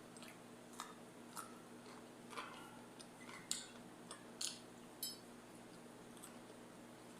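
Mouth-close eating noises: a scattering of short crunches and clicks as food is bitten and chewed, the loudest about halfway through, over a faint steady hum.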